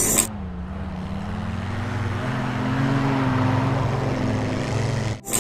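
Toy army jeep's engine-like running sound: a steady motor drone whose pitch slowly rises. It cuts off abruptly just before the end.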